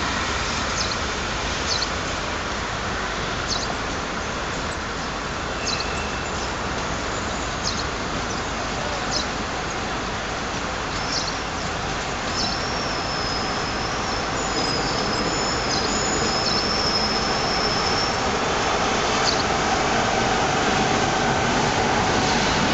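Railway coaches rolling past close by: a steady rolling rumble with light wheel ticks every second or so, and a thin high whine for a few seconds about halfway through. The noise grows toward the end as a second train, hauled by an electric locomotive, comes by on the next track.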